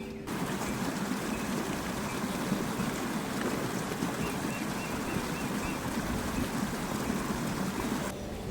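Water of a natural spring running, a steady rushing that stops suddenly near the end.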